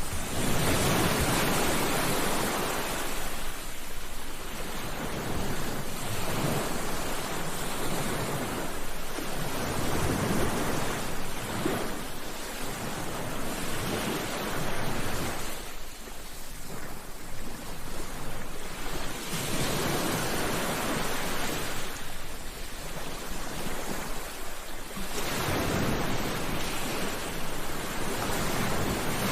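Sea waves breaking on a shore: a steady rush of surf that swells as each wave comes in and ebbs between them, every few seconds.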